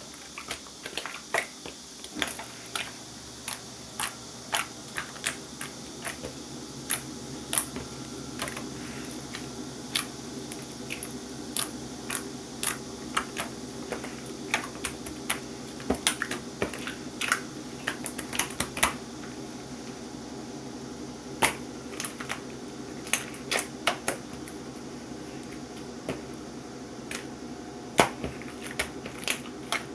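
Irregular sharp clicks and taps, one to three a second, over a steady low hum.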